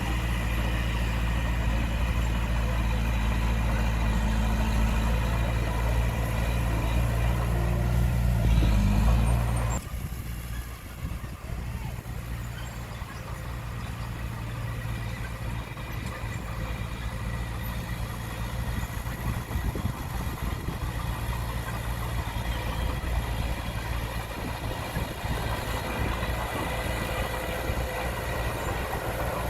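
Heavy earthmoving machine's diesel engine running steadily with a deep hum. About ten seconds in the sound drops abruptly to a quieter, steady engine sound that lasts to the end.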